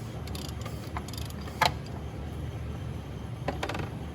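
Hand tools on metal: a few sharp metallic clicks, the loudest about a third of the way in, then a short quick rattle near the end, over a low steady rumble.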